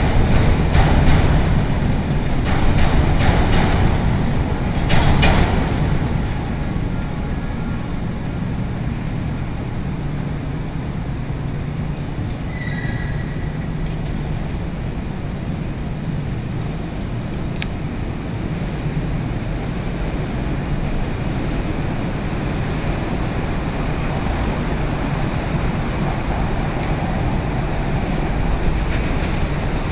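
CTA 3200-series elevated rapid-transit train clattering over the rail joints of the steel 'L' structure as it runs away, with a brief high screech about five seconds in. The train noise then fades into a steady low city traffic rumble.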